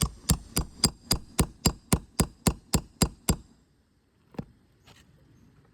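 Roofing hammer striking a nail-removal tool slipped under an asphalt shingle to pull a roofing nail: a quick run of about thirteen even hammer blows, roughly four a second, then a single blow about a second later.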